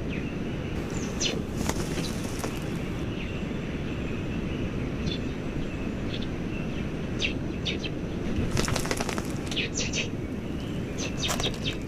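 Wild birds giving short, high chirps at scattered intervals over steady low background noise, with a brief patch of rapid crackling about nine seconds in.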